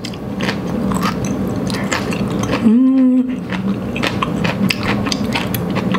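A person chewing a mouthful of udon noodles close to the microphone: many small wet mouth clicks, with a short hummed "mm" about three seconds in.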